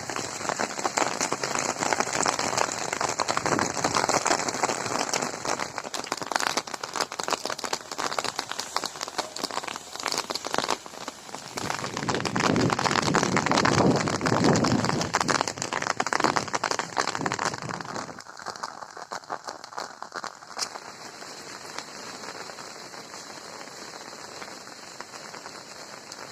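Steady rain falling, a dense patter of many drops that grows heavier in the middle and then eases to a lighter patter about two-thirds of the way through.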